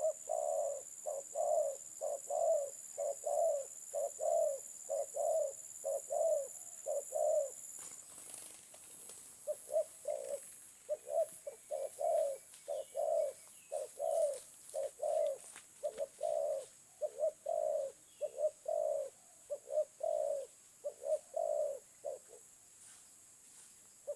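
Spotted dove (terkukur) cooing in long fast series of short coos, two to three a second, with a short pause about eight seconds in.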